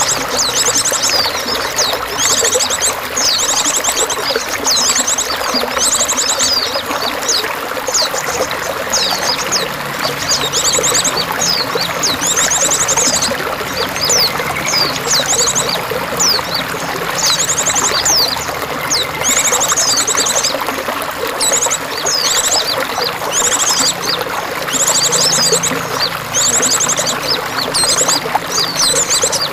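Steady trickling, pouring water with songbirds calling over it: many short, high, rapid trills and quick sweeping chirps, repeated every second or so.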